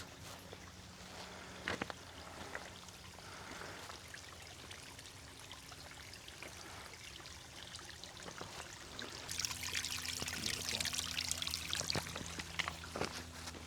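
A small stream trickling and flowing gently, louder from about nine seconds in, with a few light clicks.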